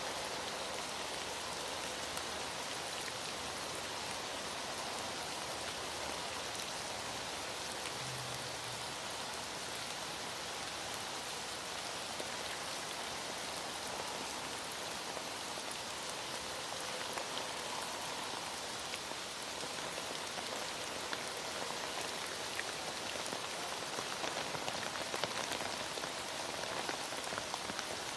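Heavy rain falling steadily, a dense even hiss of drops with scattered sharper drop ticks.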